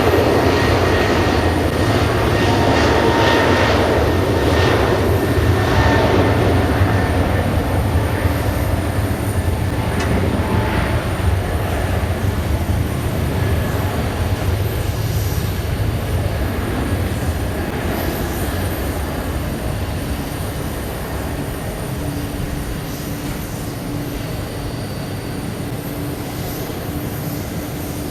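Jet noise from a Boeing 777-300's Pratt & Whitney PW4090 turbofans at departure power: a steady, deep rumble that slowly fades as the airliner draws away.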